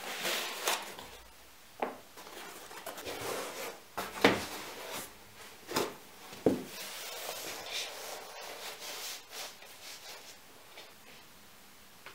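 Things being handled by hand: irregular rustling and rubbing with several sharp knocks, the loudest about four seconds in.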